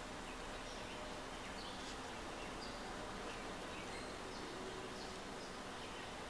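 Outdoor ambience: a steady hiss with brief, high bird chirps scattered through it.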